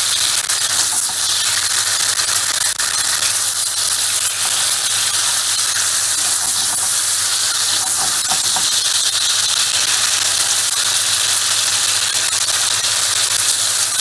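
Mushrooms sautéing in hot oil in a nonstick frying pan, a steady loud sizzle, with the spatula stirring them now and then.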